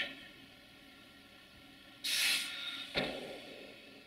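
Freight train of tank wagons at close range: a sharp metallic knock at the start, then about two seconds in a short hiss of air from the brakes that fades away, and a second sharp clank a second later, over a faint steady hum.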